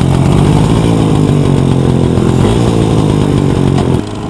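Motorcycle engine, just started, running loud with a steady beat, its note dropping suddenly in level about four seconds in as the throttle eases.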